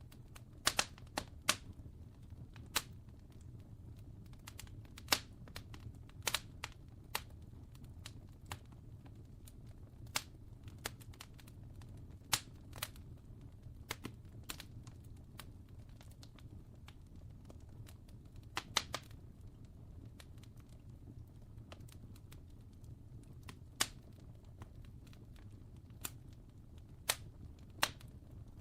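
Wood fire crackling: irregular sharp pops and snaps, a few every couple of seconds, over a steady low rumble.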